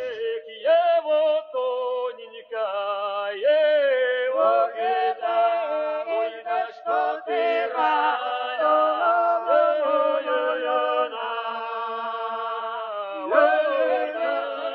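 Unaccompanied voices singing together, a cappella, in long held notes that change pitch every second or two.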